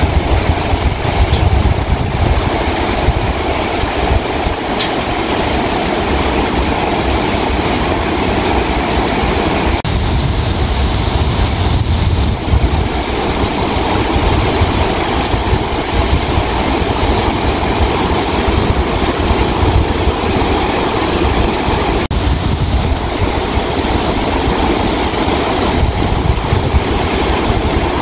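Steady, loud rushing noise with a deep rumble underneath, unbroken throughout.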